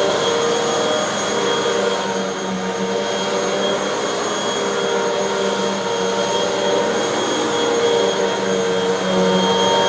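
Hoover bagless upright vacuum cleaner running steadily over carpet: a constant motor whine with several fixed tones over a rushing of air, swelling slightly in level as it is pushed back and forth.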